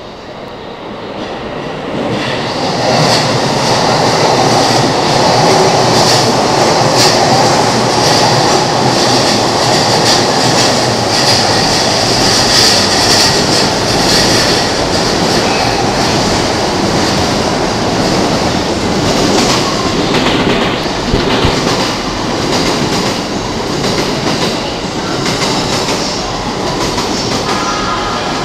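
Electric commuter train running past close by, a Keihin-Tohoku line E233-series, wheels clattering over the rail joints. The noise builds over the first two seconds, then holds steady, with train noise still going at the end.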